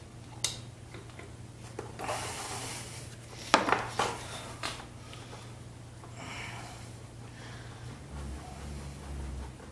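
Metal hand tools knocking and scraping against an engine while a starter mounting screw is worked loose, with a few sharp clanks, the loudest about three and a half seconds in.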